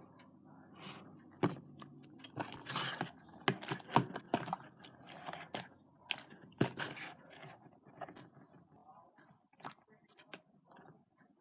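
Sticky homemade glue slime being squished and kneaded by hand: irregular wet squelches and clicks, thinning out toward the end. The slime is still sticky, not yet fully set by the liquid starch.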